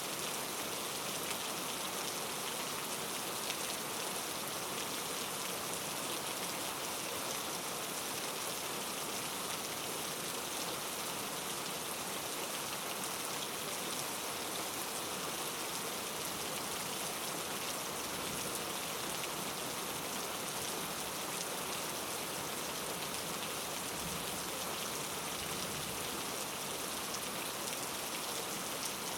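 Steady rain falling, an even hiss of many fine drops hitting a surface.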